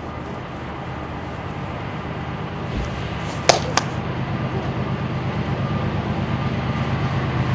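Low, steady rumble of an approaching train's diesel locomotives, slowly growing louder. Two sharp clicks about three and a half seconds in.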